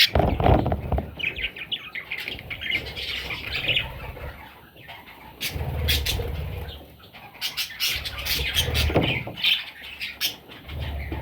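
Budgerigars chirping, with bursts of wing flapping and sharp scratchy clicks in the second half.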